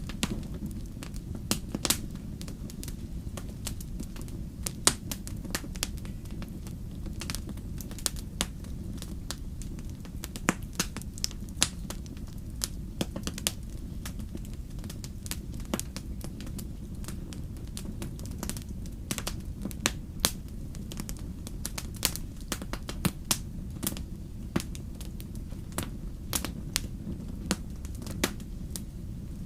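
Fire crackling: irregular sharp pops and snaps, several a second, some much louder than others, over a steady low rumble.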